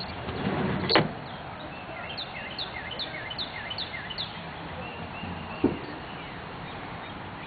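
A songbird singing a quick run of six down-slurred whistled notes over a steady rushing outdoor hiss. A sharp click about a second in and a knock near six seconds.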